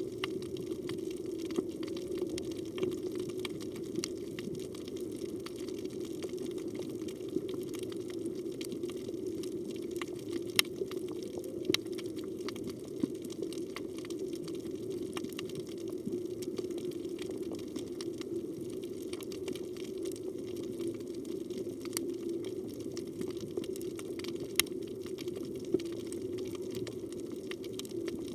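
Underwater reef ambience: a steady low rush of water with scattered sharp clicks.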